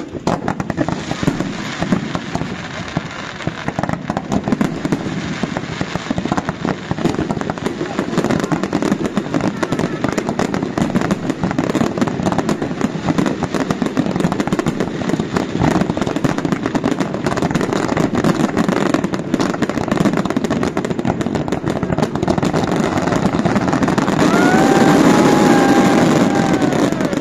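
Fireworks going off in a dense, continuous crackle of many rapid small bangs, growing louder toward the end. Near the end a brief tone glides up and then down.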